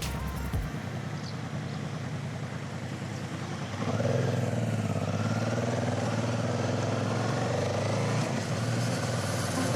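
Motorcycle engine running while riding, under a steady rush of wind noise. About four seconds in it gets louder and the engine note grows stronger.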